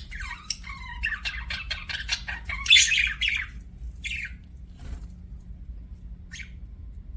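Budgerigar chirping and warbling in a quick run of short calls, loudest about three seconds in, then only a few scattered chirps. A low steady hum lies underneath.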